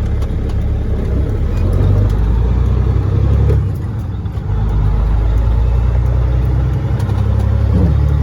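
Caterpillar 3406E inline-six diesel of a Freightliner FLD120 semi truck pulling away and accelerating. The engine sound drops briefly about four seconds in and changes pitch again near the end, as between gear shifts.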